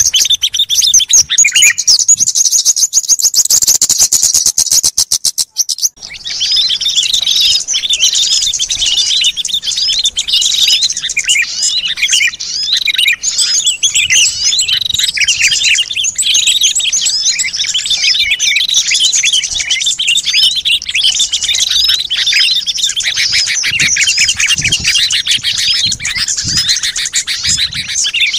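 Recorded small songbirds used as a lure: a very fast, high trill for about six seconds, then a sudden switch to a dense chorus of many small birds chirping at once.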